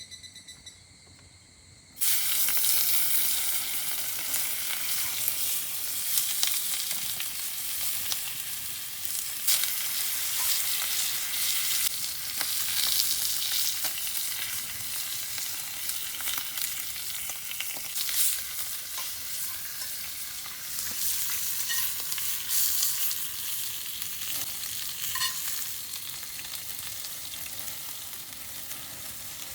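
Food sizzling and spitting in a hot pan, a dense steady frying hiss with many small pops; it cuts in suddenly about two seconds in, after a moment of insects chirping.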